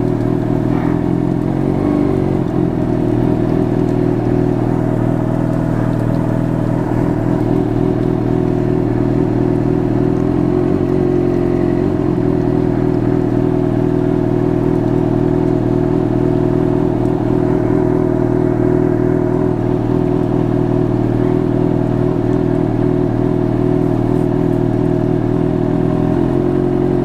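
Motorcycle engine idling steadily, heard through a microphone inside the rider's helmet.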